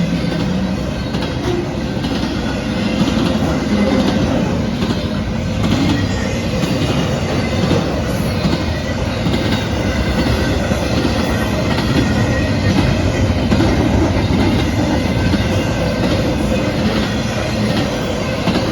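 Train passing close by: a steady, loud rumble of steel wheels on the rails, with faint clicks repeating at a regular pace.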